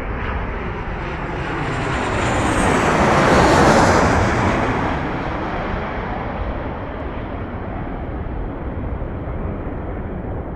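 Landing airliner passing low overhead: engine noise builds to its loudest about four seconds in, with a high whine falling in pitch as it goes by, then fades away.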